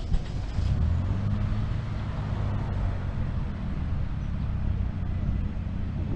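Engine of a first-generation Ford Probe running at a steady low speed, its note firming up about a second in, while the car is held on a hill with a manual clutch.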